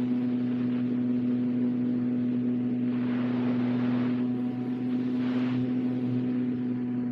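Electric motor and propeller of a radio-controlled model airplane running at a steady speed, a constant hum, with rushing wind that swells twice, about three and five seconds in.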